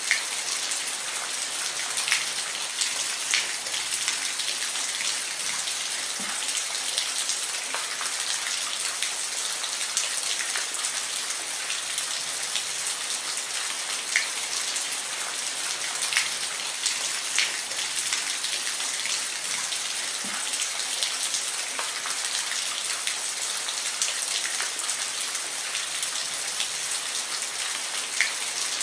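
Steady rain with a high, even hiss, and single drops ticking sharply here and there.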